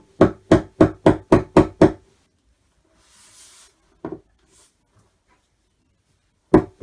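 Mallet knocking wooden dowels into flat-pack cupboard panels: about seven quick strikes at roughly four a second, then a pause with a soft rustle and a single knock, then quick strikes again near the end.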